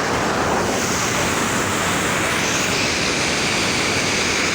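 Floodwater rushing steadily through a breach cut across a road, strong current, loud and even.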